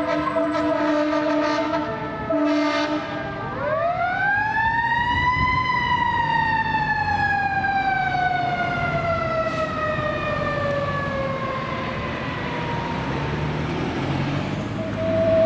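Fire truck air horns sounding in steady blasts with short breaks, then a mechanical siren winds up to a high pitch about four seconds in and slowly winds back down over the next several seconds.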